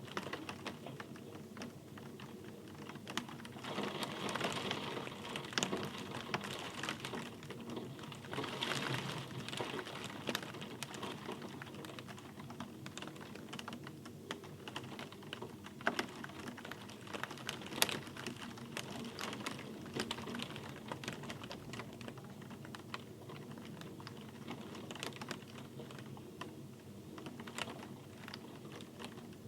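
Rain falling, a steady hiss with many irregular sharp drop taps on a hard surface. The rain swells denser about four seconds in and again around nine seconds.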